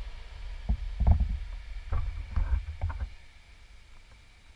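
BLS electric passenger train rumbling away over the rails, its wheels knocking irregularly over the track; the sound fades sharply about three seconds in as the train recedes.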